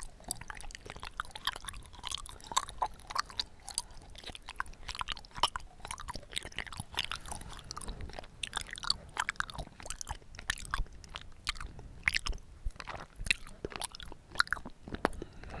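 Close-miked chewing of bubble tea tapioca pearls: a steady run of irregular wet mouth clicks and smacks.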